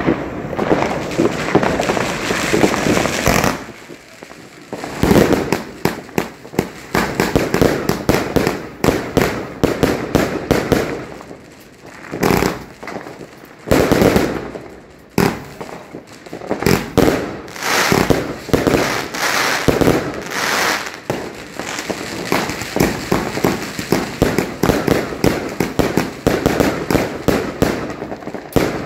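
Fireworks and firecrackers going off: many bangs and crackling in rapid succession, with brief lulls about four seconds in and about twelve seconds in.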